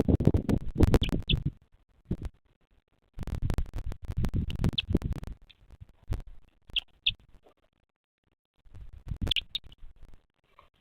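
Bursts of scratching and rustling in a bearded vulture nest, with a few short high peeps scattered through; it falls silent between the bursts.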